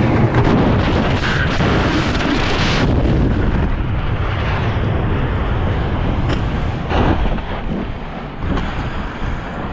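A loud, steady rumbling roar with no clear pitch. Its higher hiss falls away about three seconds in, leaving a low rumble, and a dull thump comes about seven seconds in.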